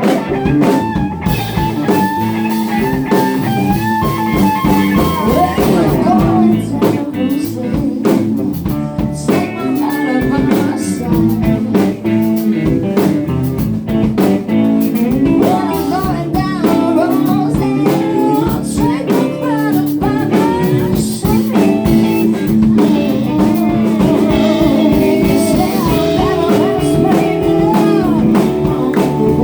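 Live band playing a blues jam: electric guitar with bending notes over bass and drum kit.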